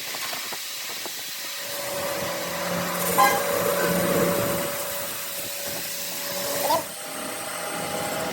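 A machine running steadily with a constant whine, its tone shifting about seven seconds in, and one sharp click about three seconds in.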